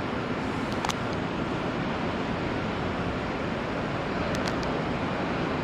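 Steady rumbling noise of an electric commuter train moving at a station platform, with a few faint clicks.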